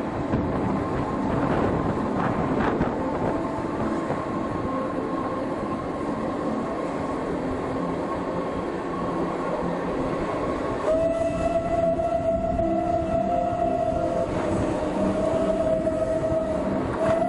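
Narrow-gauge passenger train running along the track, with a steady rolling rumble of the wheels and carriage. About eleven seconds in, a loud, steady high-pitched tone starts, holds for about three seconds, breaks off briefly and sounds again for another few seconds.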